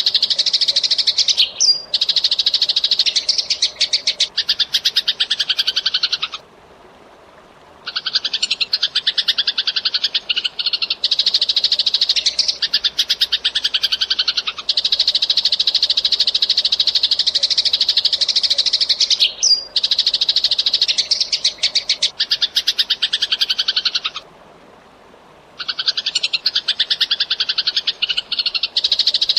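Eurasian tree sparrows chirping in long, fast, densely packed runs of chatter, broken by two short pauses about 6 and 24 seconds in.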